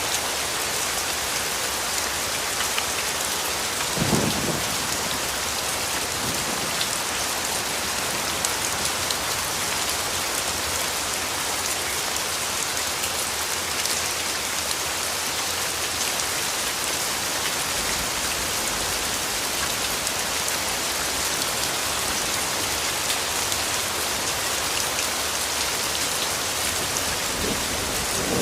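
Steady rainfall pattering on surfaces, with a short low rumble of thunder about four seconds in.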